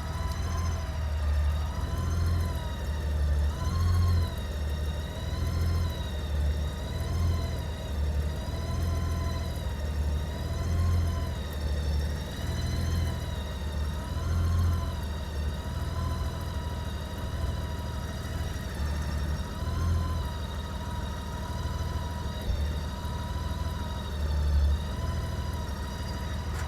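Honda GL1800 Goldwing's flat-six engine idling after a fresh oil change and a slow start, with a steady low exhaust rumble and a high whine that wavers up and down in pitch every second or two.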